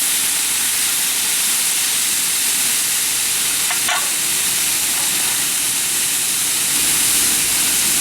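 Chicken and vegetables sizzling steadily in a hot carbon steel wok, with a brief sharper sound of stirring about four seconds in.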